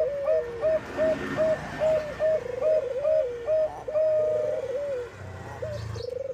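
Bangkok-type zebra dove (perkutut) singing: a fast run of short clipped coos, about three a second, broken by a few longer rolling trill notes that fall in pitch. About five seconds in the calls stop for a moment over a low hum, then start again.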